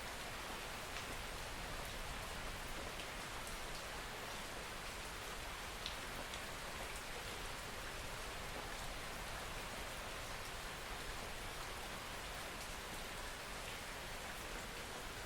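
Steady soft rain falling, an even hiss with scattered individual drop ticks.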